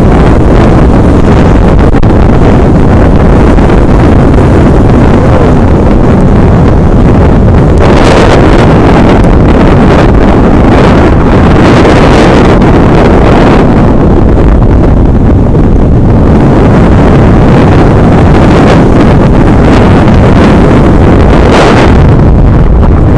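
Heavy wind buffeting the camera microphone at skiing speed, a loud steady rushing that swells into brighter hissing surges three times.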